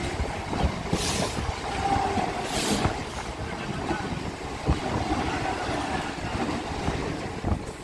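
Mumbai suburban local train coaches running close past on the next track: steady rumble with the knocks and clatter of wheels on rail joints, and two brief hisses about one and two and a half seconds in.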